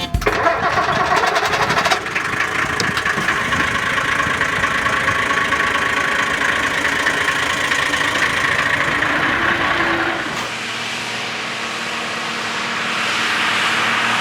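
Mercedes-Benz L 311 truck's diesel engine running steadily. About ten seconds in, the sound changes: the deep low end falls away and a hiss swells near the end.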